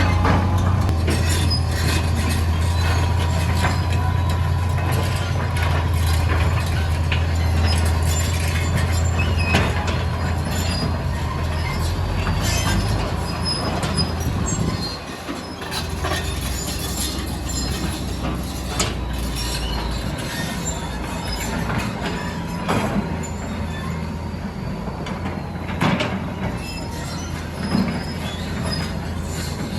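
Hitachi EX200 hydraulic excavator working, its diesel engine running steadily under load with scattered clanks, scrapes and metallic squeals from the bucket and sand and rock. The engine note drops and changes about halfway through.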